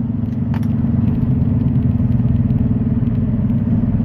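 Semi truck's diesel engine running steadily, a low drone with a fine rapid pulse. A faint click about half a second in.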